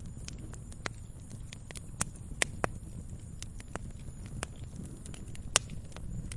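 Wood fire crackling: irregular sharp pops and snaps over a low steady rumble, the loudest pops about two seconds in and again near the end.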